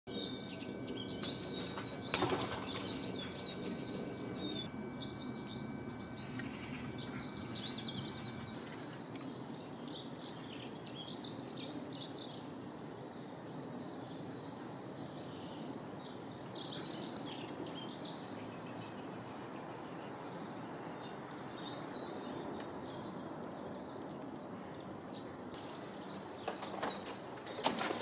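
Small songbirds chirping and singing: many short, overlapping high calls in bouts, over a steady background hiss.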